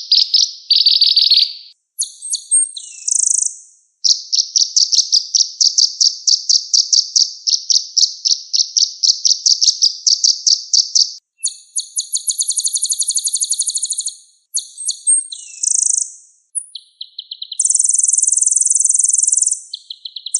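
Kolibri ninja (a sunbird) singing loudly, with fast high-pitched trills of repeated chirps, a long even run of about six notes a second, then denser buzzy trills and a sustained high buzzing trill near the end, separated by short pauses.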